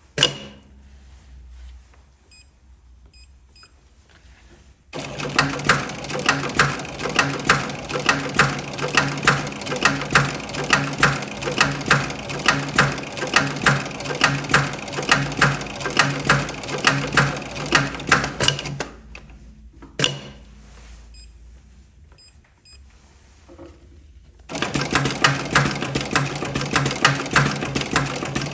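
Electronic pattern post-bed double-needle sewing machine stitching a pattern in two spells. The first spell lasts about fourteen seconds, the second starts again near the end, and the fast needle strokes carry a regular pulse. There is a single sharp click at the very start and another during the pause between the spells.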